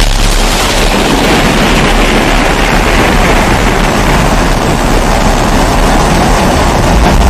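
Pressurised kerosene stove (babour, primus-type) burner running, a loud steady rushing hiss of the vaporised fuel burning.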